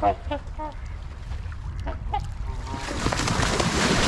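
A flock of waterfowl, trumpeter swans and geese, honking in several short calls. From about three seconds in, a loud rushing noise rises and drowns them out.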